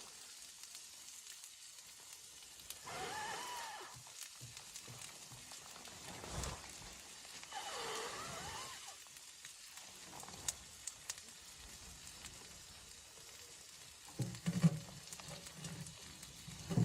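Blizzard wind howling in gusts, each gust a wavering whistle that rises and falls, heard three times; a few short knocks come near the end.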